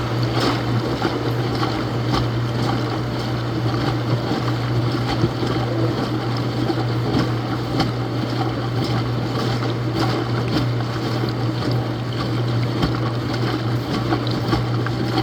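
Laundromat washing machine running mid-cycle: a steady motor hum under a continuous churning noise scattered with small knocks.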